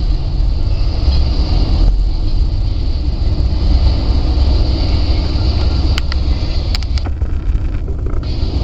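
Steady low rumble of a moving Amtrak passenger train, heard from aboard the train, with a few sharp clicks about six to seven seconds in.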